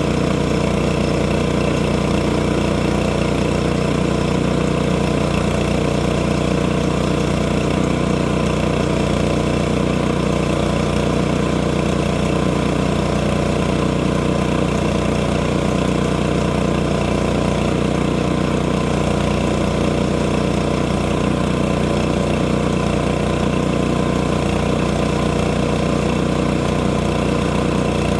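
Sawmill engine running at a steady speed, its pitch and level unchanging.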